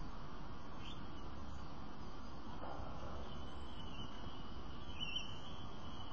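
Steady outdoor background hum with a few faint, high bird chirps: a short rising one about a second in and another around five seconds in.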